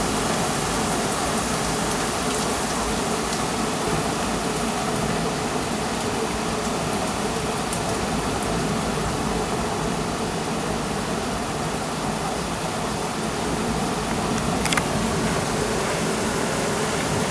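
Heavy thunderstorm rain pouring steadily, a dense even hiss of downpour, with one sharp tick near the end.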